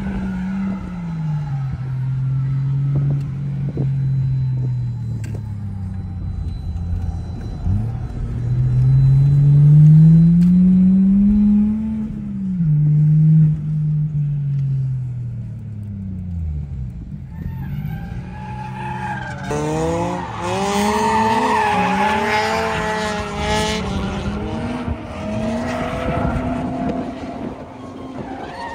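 Heard from inside the cabin, the turbocharged JZ straight-six of a Toyota Verossa JZX110 revs up and down through a gear change. About two-thirds of the way through it gives way to several drift cars sliding past at high revs, their engine notes wavering up and down over squealing tyres.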